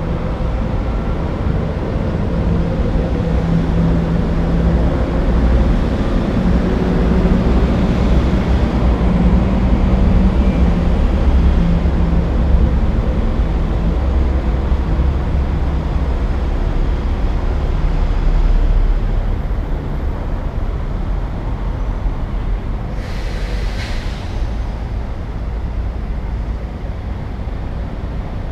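City street traffic: a steady low rumble of passing vehicles, with a heavy engine humming loudest in the first half before it eases off. Near the end comes one short hiss of about a second.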